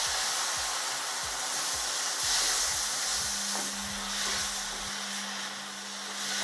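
Chopped tomatoes sizzling on hot oil and fried onion masala in a nonstick pan, stirred with a wooden spatula that knocks softly against the pan. A low steady hum joins about three seconds in.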